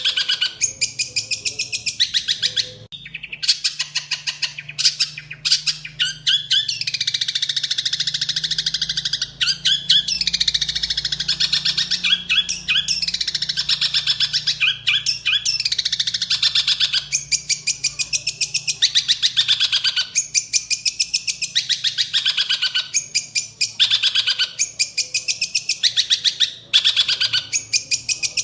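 Long-tailed shrike (cendet) singing fast and loud: an unbroken stream of rapid, harsh chirps with falling whistled notes, filled in with mimicked calls of other birds such as sparrows.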